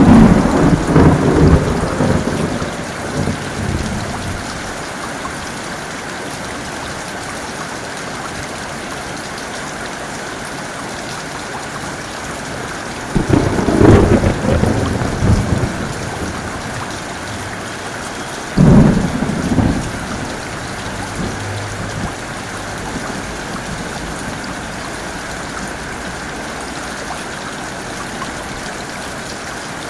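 Heavy rain falling steadily, with thunder breaking three times: a rumble at the start that fades over about three seconds, another about 13 seconds in that rolls on for a few seconds, and a shorter clap near 19 seconds.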